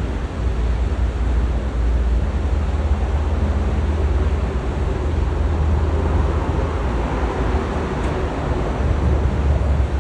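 Freight train rolling slowly past, a steady low rumble with a rushing noise over it, and wind buffeting the microphone.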